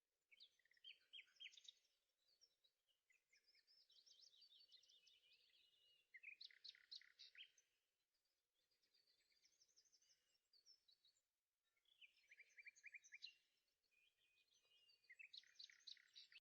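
Faint birdsong: a run of quick chirping and trilled phrases, a new phrase every couple of seconds.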